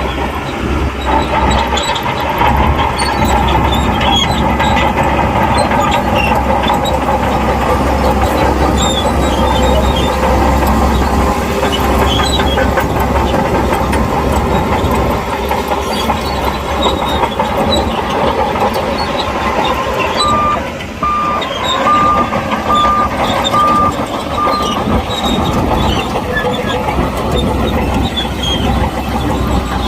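Shantui crawler bulldozer working under load in sand: diesel engine running steadily with the continuous clanking clatter of its steel tracks. About two-thirds of the way through, a reversing alarm gives about six short, evenly spaced beeps.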